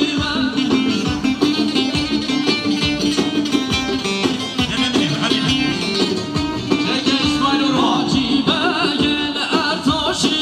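Loud, amplified Kurdish wedding dance music: a singer's wavering voice over a held low drone and a steady drum beat.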